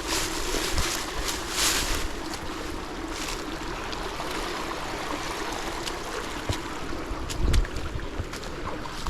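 A steady rushing noise with scattered crackles and rustles and a heavier thump about seven and a half seconds in, the sound of a person moving on foot through brush and leaves on a steep slope with a body-worn camera.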